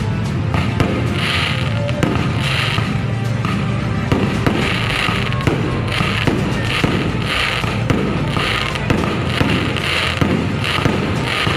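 Fireworks crackling and popping with many small sharp reports, mixed with music that has a steady, repeating beat.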